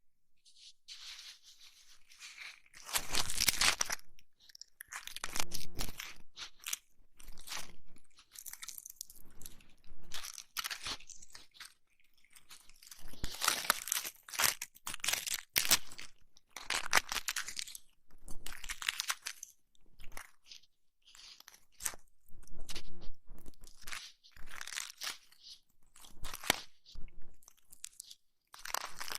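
Close-miked ASMR crunching and crackling in irregular bursts, about one every second or two, with short quiet gaps between them.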